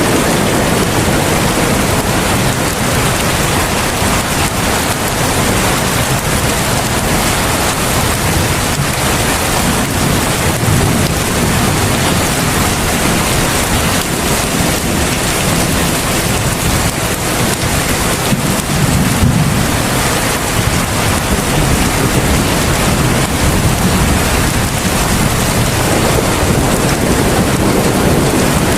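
Heavy rain falling steadily, a dense even downpour with a low rumble under it.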